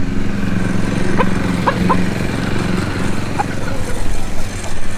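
A small engine running steadily in the background, with a few short rising chirps from chickens over it.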